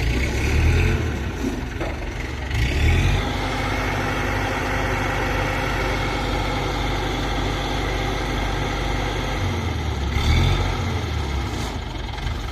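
Tractor engine running steadily. It swells louder briefly three times: near the start, about three seconds in, and near the end.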